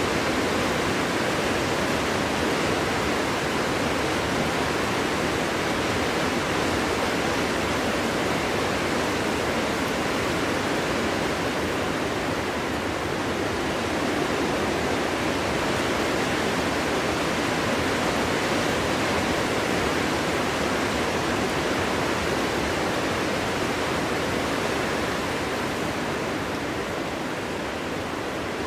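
Steady wind blowing through a forest: an even rushing noise with no whistle or gusts standing out, easing slightly near the end.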